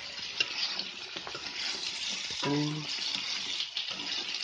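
Chopped snail meat frying in oil in a wok, a steady sizzle, with a spatula clicking and scraping against the wok as it is stirred. A short voice sound comes in about halfway through.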